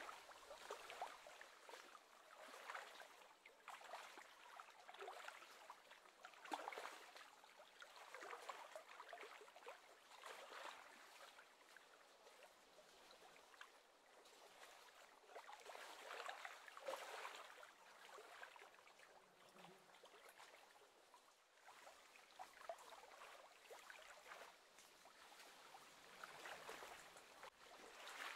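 Near silence, with faint lapping and trickling of small wavelets at the lake edge that swells and fades irregularly.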